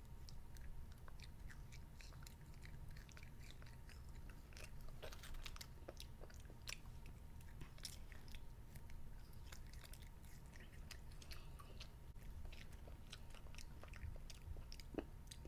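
A child chewing candy Easter grass: faint, irregular wet clicks and smacks of the mouth.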